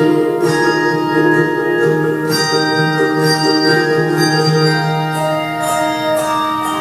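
Instrumental music: held keyboard chords, with struck notes sounding over them and ringing on, about four times.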